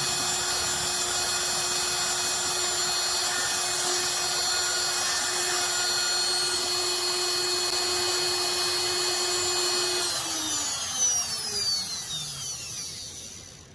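Router spindle of a Bob's CNC running at a steady high speed, then switched off about ten seconds in, its whine falling in pitch as it spins down and fades out at the end of the engraving job.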